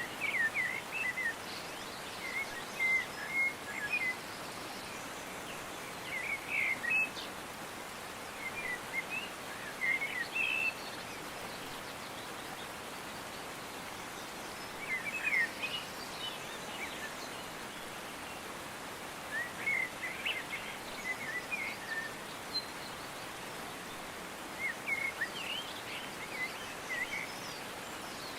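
Birds chirping in short clusters every few seconds over a steady hiss.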